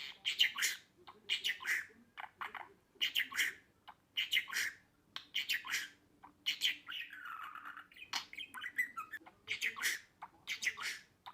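Budgerigar chattering: clusters of short, quick squawks and chirps, with a longer warbling call about seven seconds in.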